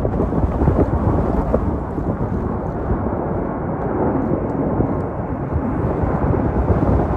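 Deep jet-engine rumble, most likely the Emirates Airbus A380's four engines, mixed with strong wind buffeting the microphone. The noise is loud and steady, swelling slightly in the middle.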